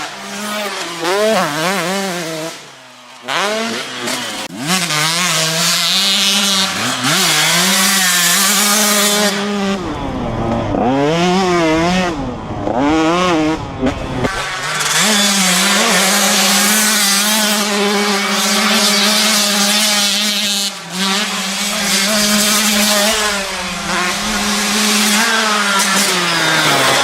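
Motorcycle-like engine revving sounds for a toy dirt-bike race, the pitch wavering up and down with short breaks about 3, 14 and 21 seconds in.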